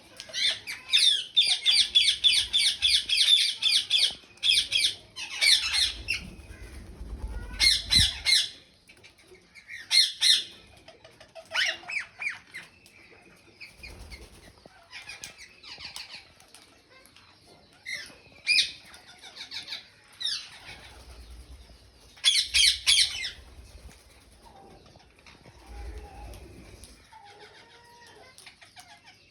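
Ringneck and Alexandrine parakeets calling in bursts of rapid, harsh screeches. A long run of calls comes in the first few seconds, then shorter outbursts follow every couple of seconds with quieter gaps between.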